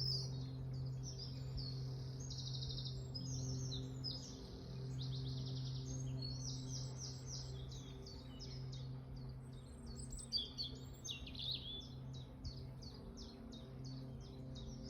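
Several songbirds singing together: rapid trills and chirps overlap almost without a break. A steady low hum runs underneath.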